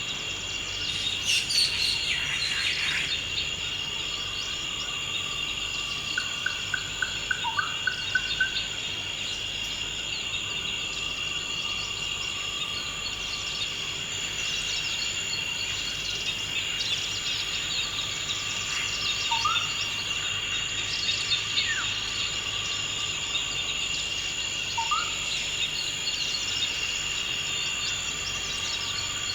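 Forest ambience: a steady, high-pitched chorus of insects droning without a break, with scattered bird calls over it. A quick run of about eight repeated notes comes about a quarter of the way in, and short rising chirps come every several seconds.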